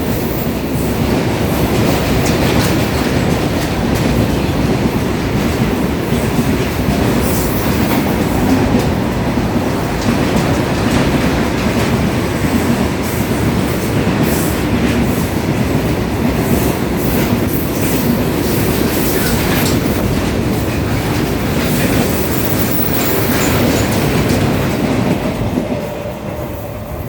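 Train running on its rails: a steady, loud rumble with scattered clicks of the wheels over the rail joints, easing off slightly near the end.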